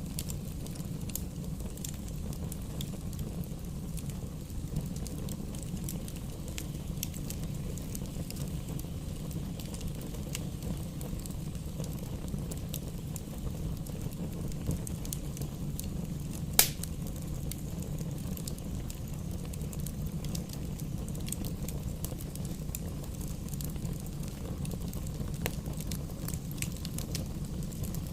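Campfire burning: a steady low rumble of flames under scattered crackles and small pops, with one sharp, louder pop a little past halfway.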